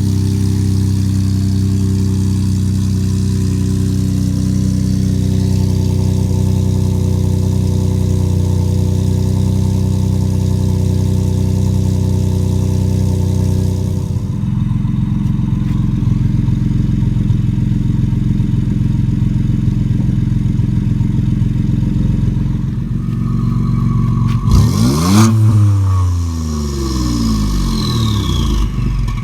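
Ford 2.7 EcoBoost twin-turbo V6 breathing through catless downpipes and an S-Tube exhaust, idling steadily. Near the end it is blipped once to about 4,000 rpm and falls back to idle over a few seconds.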